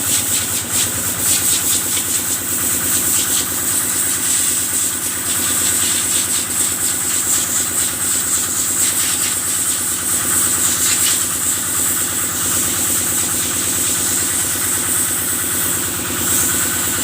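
Kubota engine running steadily at a constant speed, driving the washing pump, with a rapid even pulse and a steady high hiss over it.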